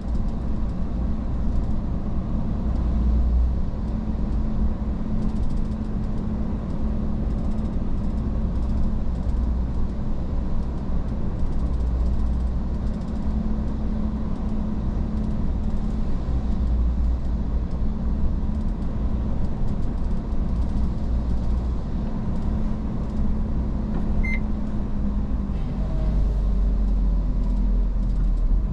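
Iveco S-Way truck's diesel engine running steadily under way with road rumble. A short high beep comes about 24 seconds in, and the engine note changes a couple of seconds later.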